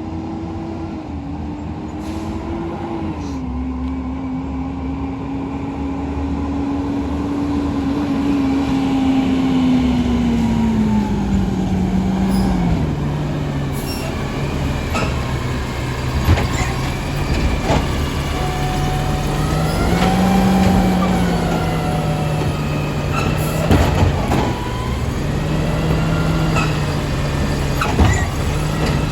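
Garbage truck running. A humming tone holds steady, falls in pitch a little before halfway and settles lower, with a few sharp knocks near the end.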